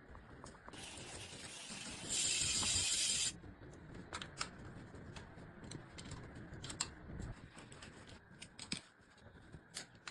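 Hand work on a bicycle being assembled: a hiss of about two and a half seconds starting near the start, louder in its second half, then scattered light clicks and taps of tools and parts being handled.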